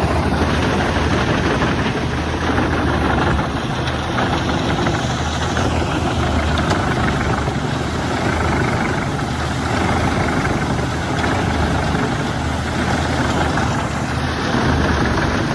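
Wood chipper's engine running steadily, a low hum under broad mechanical noise with no pauses or sharp strikes.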